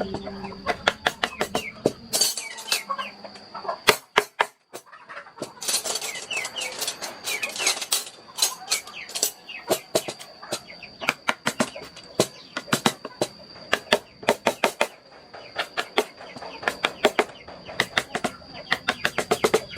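Hand wood carving: a mallet tapping a carving chisel in quick runs of sharp strikes, several a second, with short pauses between runs. Birds chirp faintly in the middle.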